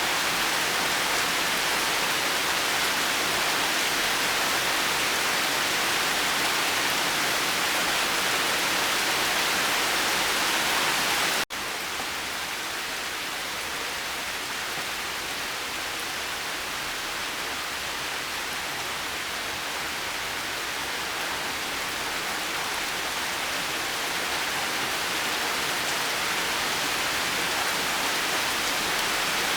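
Steady rainfall, an even hiss without thunder. About eleven seconds in it cuts out for a split second, then resumes slightly softer and slowly grows louder again.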